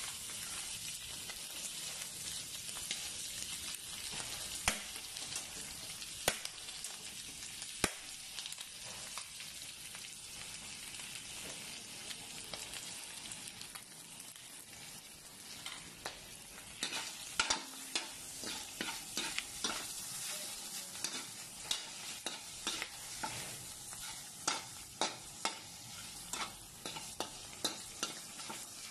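Diced pork fat frying in an aluminium wok with a steady sizzle as its lard renders out. A few sharp clicks come early, and from about halfway a metal spoon scrapes and clinks against the wok about once or twice a second as the pieces are stirred.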